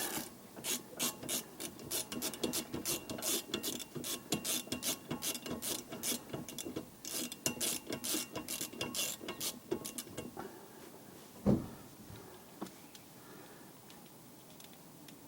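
Ratchet wrench clicking steadily as it spins out the Torx screw that holds a Vauxhall rear brake disc to the hub, for about ten seconds. A single knock follows near the end.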